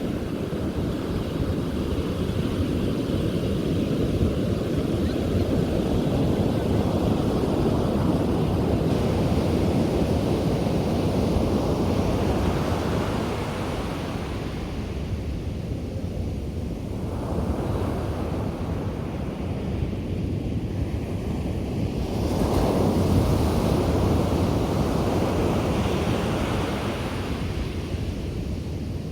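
Sea waves breaking and washing up a beach, a continuous surf that swells and ebbs in slow surges every few seconds, with wind buffeting the microphone.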